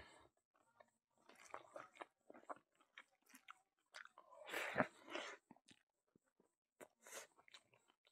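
Close-up mouth sounds of a person chewing a mouthful of rice and smoked pork: faint, scattered wet smacks and clicks, with a louder spell of mouth noise about four to five seconds in as a handful of rice goes in.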